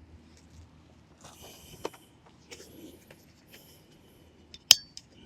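Objects being handled: soft rustling and a few light taps, then one sharp clink with a short ring near the end.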